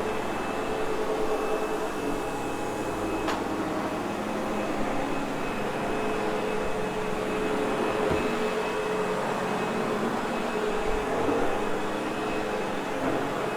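Sebo X8 upright vacuum running steadily over carpet: a constant motor hum with a high steady whine. There is a single short click about three seconds in.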